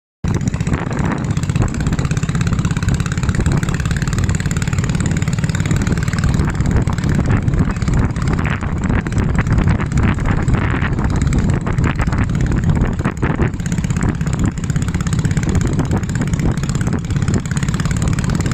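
A boat's engine running steadily underway, with wind and water noise.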